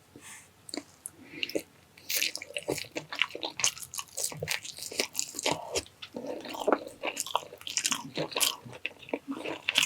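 Close-miked eating: biting and chewing with wet mouth clicks and some crunchy bites. Sparse at first, then steady and busy from about two seconds in.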